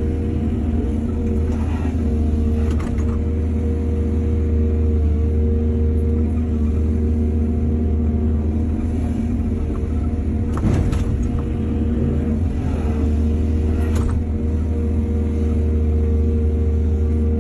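Excavator's diesel engine running steadily, with a few knocks; the loudest comes about eleven seconds in and another near fourteen seconds.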